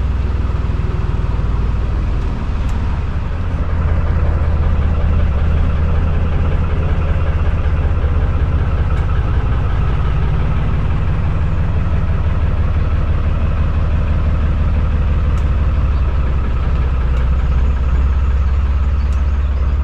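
Narrowboat's diesel engine running steadily with a deep, low throb; it picks up a little about four seconds in.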